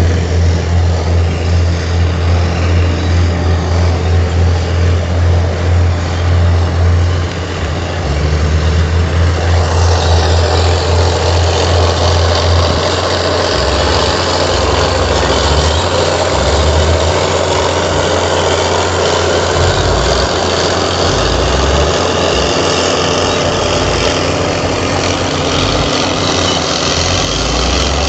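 Heavy diesel engine of earthmoving machinery running loud. The level pulses for the first seven seconds. The engine note changes about seven to eight seconds in, and from about ten seconds in a steadier, noisier clatter is added.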